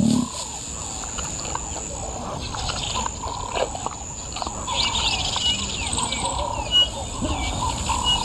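Wild birds chirping and calling outdoors: many short chirps and trills, busier in the second half, with one brief louder sound about seven seconds in.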